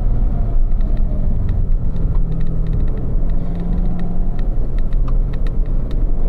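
In-car sound of a V8 sports car on a race track in fourth gear, the engine running at part throttle with its revs easing down as the car slows through a corner, over a steady low road rumble. Frequent light clicks sound throughout.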